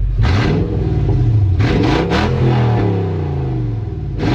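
Toyota 4.7 L V8 with its exhaust cut open near the front, running without mufflers or catalytic converters, revving loudly under hard acceleration. The engine pitch climbs steadily, with several short harsh blasts of noise over it.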